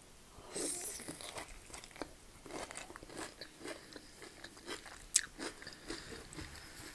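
A person chewing a mouthful of food close to the microphone, with a run of small crisp crunches and mouth clicks.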